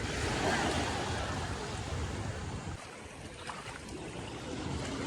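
Steady rush of wind and sea water, dipping briefly about three seconds in.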